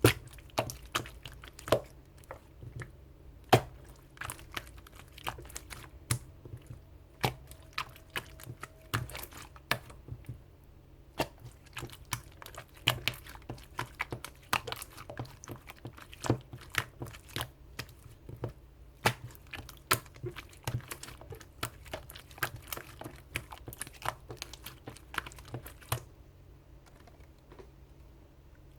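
Clear slime still holding air bubbles, being pressed and squeezed by hand, giving off irregular crisp clicks and pops that stop a couple of seconds before the end.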